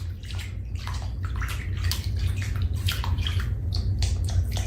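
Water running and splashing, like a bathtub being filled or a bath in progress, over a steady low rumble of irregular splashes.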